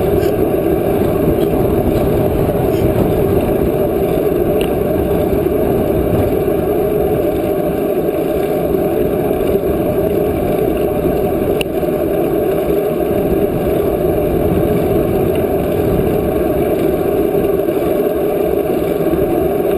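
Steady, loud wind rumble on the microphone of a camera carried on a moving bicycle, with the hiss of riding mixed in.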